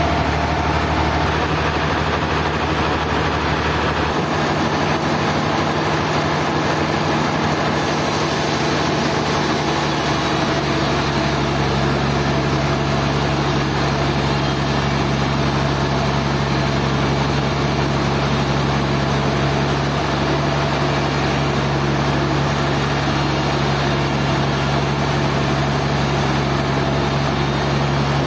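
A sawmill's engine running steadily, its tone changing a couple of times in the first ten seconds or so, then holding even.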